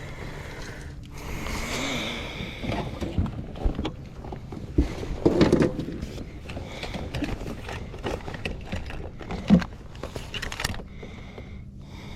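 Irregular knocks, scrapes and rustling of handling on a kayak, with a louder cluster of knocks about halfway through and a single sharp knock near the end.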